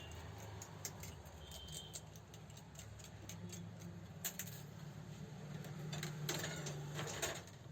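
Irregular light metallic clicks and clinks from handling the parts of an overlock sewing machine during repair, with a few louder clicks near the end, over a steady low hum.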